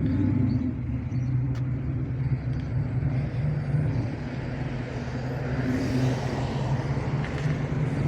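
A car engine running steadily at low revs, its low pitch holding even throughout.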